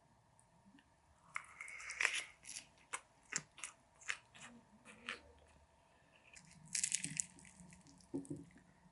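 Close-up eating sounds: crunchy bites and chewing, with a string of sharp clicks from about 1.5 to 5 seconds in and a denser crunchy burst around 7 seconds.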